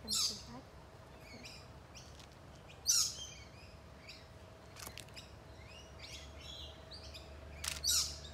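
Several birds chirping and calling over one another in quick, high, sliding notes, with louder bursts just after the start, about three seconds in and near the end.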